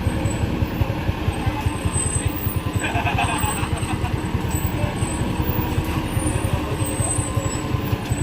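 Diesel engine of a Mitsubishi light truck running steadily, its rapid low firing pulses continuous, with a brief higher-pitched noise about three seconds in.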